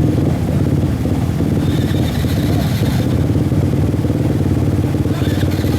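Enduro motorcycle engine running at a steady speed, without revving up or down.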